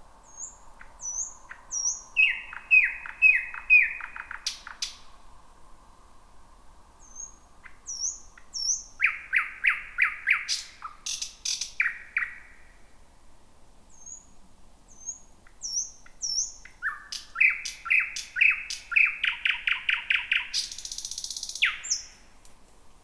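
Thrush nightingale singing: three phrases, each made of high whistled notes followed by fast runs of loud repeated notes, with pauses between them. The last phrase ends in a harsh rattle.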